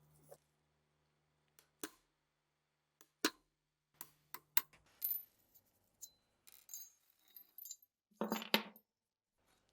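Metal parts of an old MG-34 machine gun clicking and clinking as they are handled and set down. Single sharp clicks come about a second apart, then a run of ringing clinks and a louder knock near the end.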